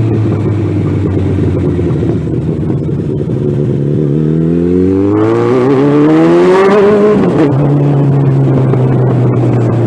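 Suzuki Bandit 1200's inline-four running straight through an open exhaust pipe with no muffler: it idles, is revved up in one long rising pull about midway, then drops back to idle.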